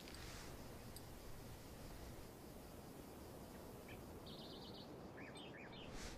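Faint background ambience with a few faint bird chirps past the middle: a short fast trill, then several quick chirps.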